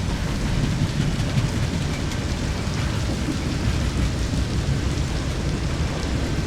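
Steady rain falling, with a continuous deep rumble underneath it and no sharp thunderclap.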